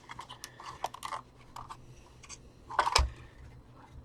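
Plastic casing of a handheld vacuum clicking and creaking as it is flexed and pried at its seam, with a louder knock about three seconds in.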